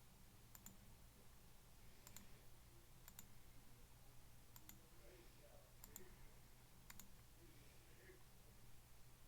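Faint computer mouse clicks, about six of them, mostly quick double clicks, over a low steady background hum.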